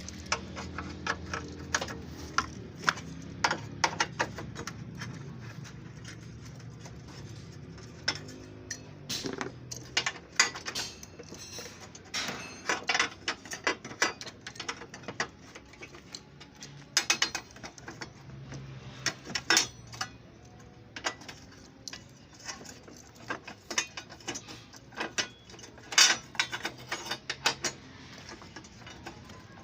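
Hand ratchet wrench clicking in bursts, with metal tools and parts clinking, as bolts are undone on a car body.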